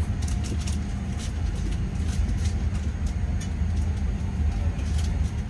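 Steady low rumble of a parked Boeing 787-9's cabin air system, with light clicks and rustles scattered through it.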